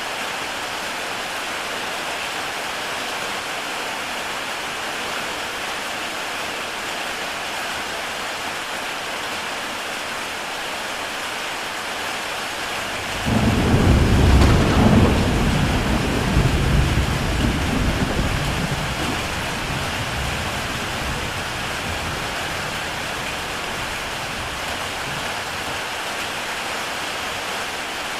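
Heavy rain falling steadily on a tile roof, with a roll of thunder breaking in about halfway through, loudest at first and fading away over several seconds.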